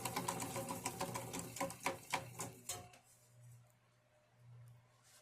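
Harbor Breeze New Orleans ceiling fan spinning down after being switched off. A fast rattling tick slows, its strokes spreading apart, and fades out about three seconds in, leaving a faint low hum that swells and fades.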